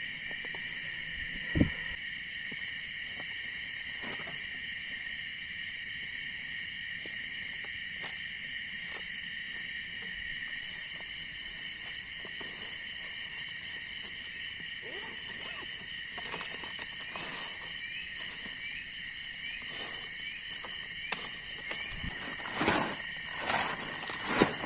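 Steady forest insect chorus, a continuous high shrill at two pitches. Occasional knocks and rustles of gear being handled cut through it, with a sharp knock about a second and a half in and a cluster of knocks and rustles near the end.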